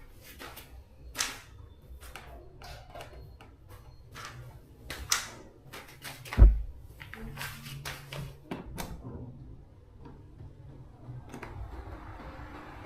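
Irregular clicks, taps and knocks of small hard parts being handled, with one heavy thump about six and a half seconds in.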